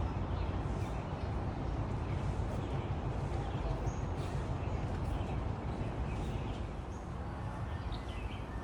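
Outdoor urban ambience: a steady low rumble of distant traffic, with scattered short bird chirps and calls over it, a few of them near the end.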